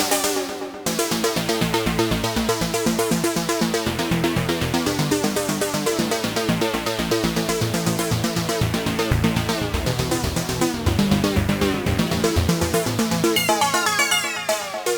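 PolyMax software synthesizer playing a trance-style electronic sequence: a fast, steady pulse of short synth notes over a bass line, with a brighter run of quick notes coming in near the end.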